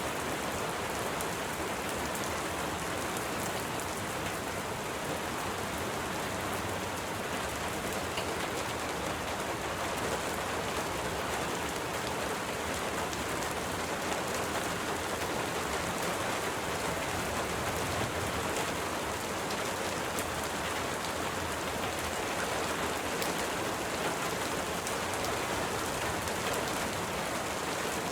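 Steady rain falling, an even hiss with a dense patter of fine drops that neither builds nor fades.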